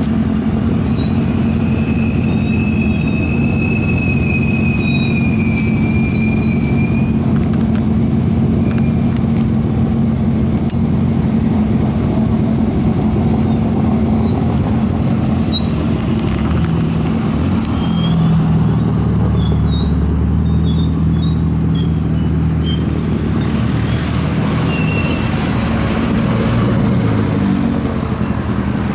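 A vehicle engine running steadily nearby, a constant low drone that changes pitch slightly in the second half, with birds chirping during the first several seconds.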